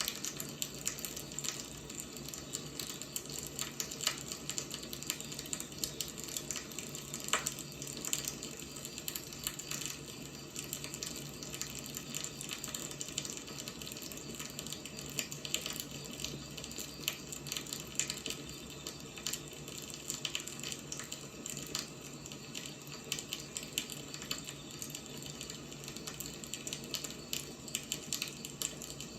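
Wood fire burning: a steady hiss with frequent irregular crackles and pops, one sharper pop about seven seconds in.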